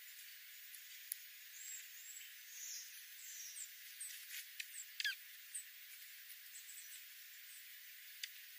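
Small birds calling: scattered short, high chirps and, about five seconds in, one louder note that slides downward, over a faint steady hiss.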